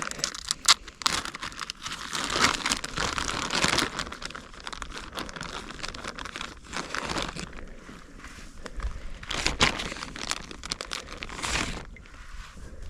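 Plastic rustling and crinkling close to the microphone, uneven with many small sharp clicks and taps and several louder swells.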